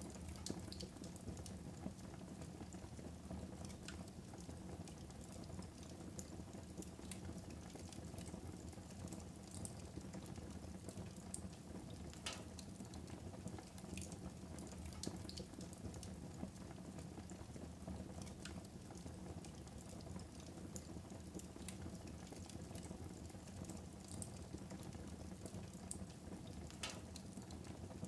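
Wood fire burning in a fireplace: a steady low rush of flame with frequent sharp crackles and pops, a few of them louder.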